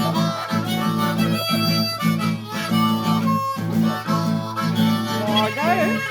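Blues harmonica solo over a steady boogie rhythm on guitar, with bent notes sliding in pitch near the end.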